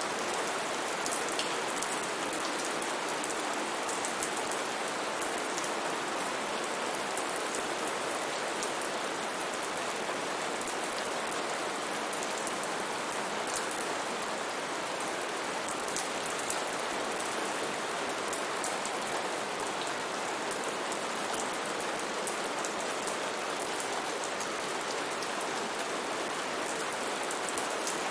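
Steady heavy rain falling on foliage, a dense even hiss with many small drop ticks.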